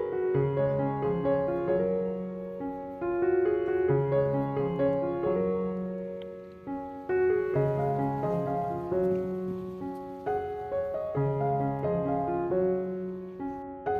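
Background music: a gentle, slow piano piece of single notes over held bass notes and chords.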